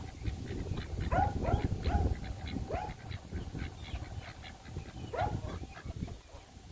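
Short animal calls repeated several times, mixed with many brief high chirps, over wind rumbling on the microphone.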